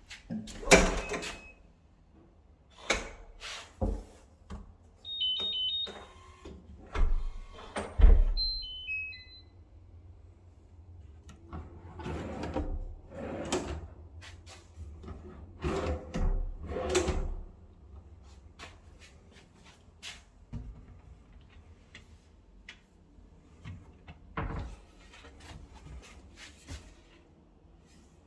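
Cabinet doors, drawers and doors being opened and shut: a string of knocks, clicks and thuds, with a few short electronic beeps near the quarter mark.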